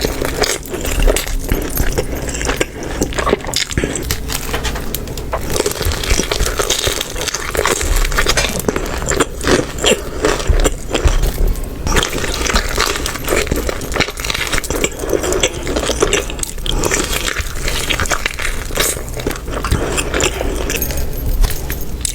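Close-miked eating of Little Caesars pizza: a steady run of bites, chewing and crunchy crackling, with scraping and clinking handling noises.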